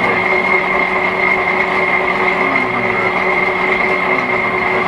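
A 1941 Hendey flat-belt-drive metal lathe running, a steady mechanical noise with a constant high whine and a lower hum.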